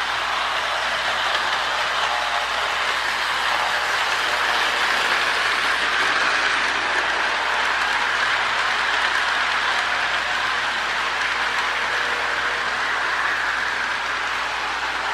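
Restored Marx E7 toy train locomotive running on its track with cars in tow: a steady whir of the electric motor and rolling wheels, a little louder in the middle.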